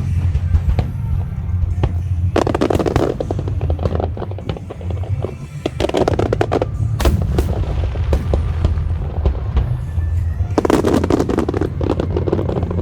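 Aerial fireworks bursting and crackling in three dense volleys, a few seconds apart, over a steady low rumble, with music playing along.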